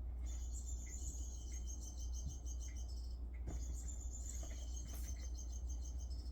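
Electronic bird chirping from a cat's toy birdie: two runs of rapid high chirps, each about three seconds long, with a short break between them, over a steady low hum.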